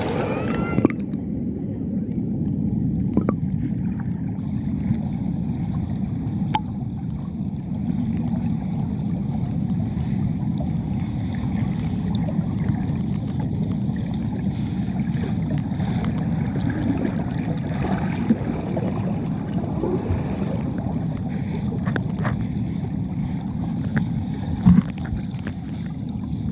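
Steady, muffled rush of river water at a waterfall, mostly low in pitch, with a few faint clicks.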